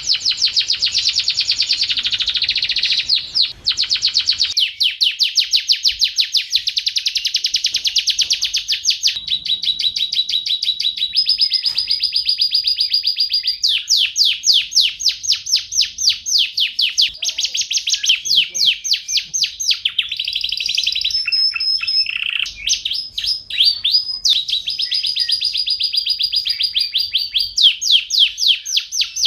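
Domestic canary singing a long continuous song: fast trills of quickly repeated notes, each trill held for one to a few seconds before switching to a new one, with a short dip about three and a half seconds in.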